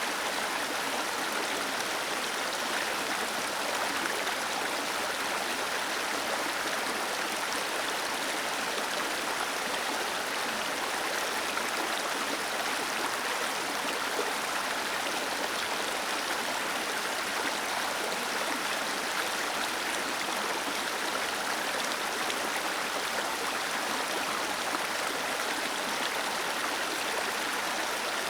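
Waterfall water cascading and splashing in a steady, unbroken rush.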